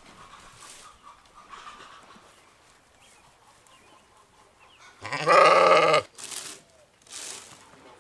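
A single loud bleat of a sheep or goat, about a second long and starting about five seconds in, with a quavering pitch.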